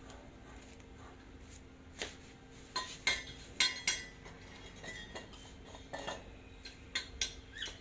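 Small metal parts and tools clinking and knocking against each other, about a dozen sharp irregular clinks, over a faint steady hum.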